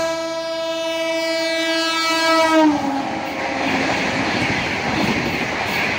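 Indian Railways express train sounding one long horn blast of nearly three seconds, its pitch dropping at the end, followed by the steady rush of the train going past at speed.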